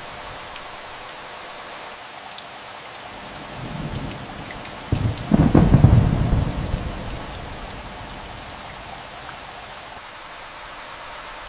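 Steady rain falling, with a peal of thunder that breaks suddenly about five seconds in, rumbles heavily for a couple of seconds and fades away.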